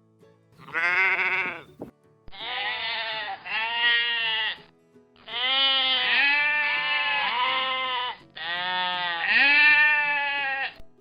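Sheep bleating: about five long bleats in a row, the later ones running almost back to back.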